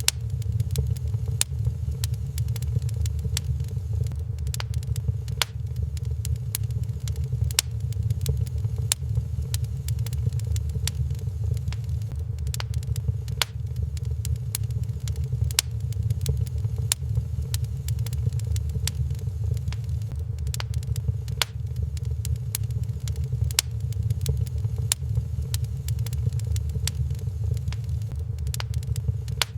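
Wood fire crackling in a fireplace: frequent sharp irregular pops and snaps over a steady low rumble.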